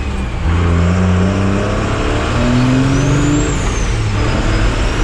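Turbocharged car engine accelerating hard at full throttle, its pitch climbing, dropping briefly at each gear change about two and three seconds in, then climbing again. A faint high whistle rises and falls in the second half.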